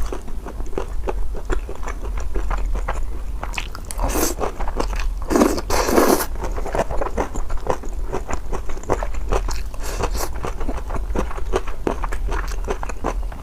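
Close-miked chewing and biting of food: wet, crunchy mouth sounds in quick irregular clicks, louder for a moment about four seconds in and again around six seconds, over a steady low hum.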